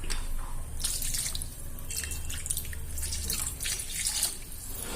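Chicken curry in a pot bubbling with the water just added, irregular pops and spatters over a low steady hum.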